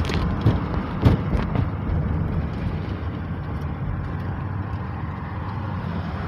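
Car driving: steady road and engine rumble, with a few sharp knocks in the first second and a half.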